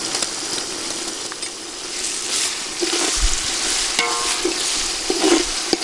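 Tomato masala with freshly added ginger paste sizzling and frying in a metal pot, stirred with a metal ladle that scrapes against the pot.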